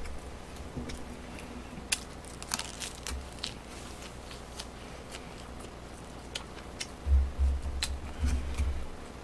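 A person chewing food close to the microphone: scattered sharp clicks and smacks. A few dull low thumps come from about seven seconds in.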